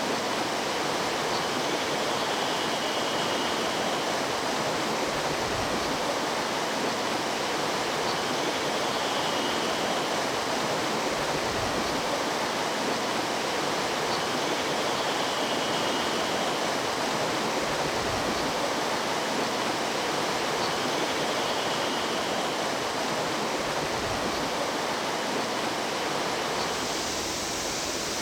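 Water of a mountain stream rushing steadily, an even, unbroken rush.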